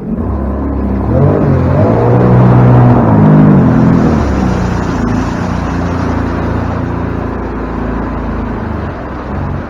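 Watercraft engine throttling up about a second in, its pitch climbing to its loudest around three seconds in, then running steadily at speed.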